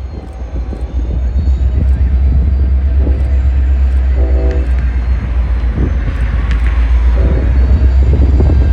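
Diesel locomotive rumbling steadily at a low pitch, with a few brief higher notes over it about three, four and seven seconds in.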